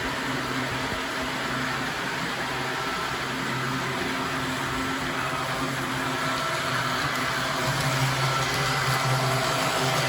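Model train running along the layout's track: a steady motor hum and wheel rumble that grows a little louder near the end.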